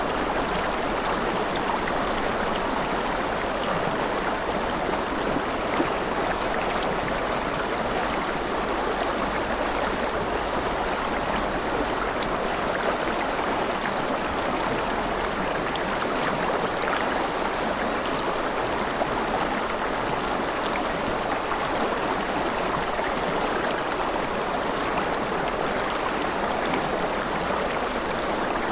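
Steady river water flowing and splashing, an even rush with small gurgles.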